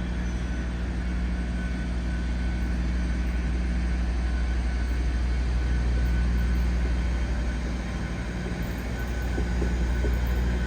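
A train running at the station, with a steady low hum and a faint higher-pitched tone that comes and goes.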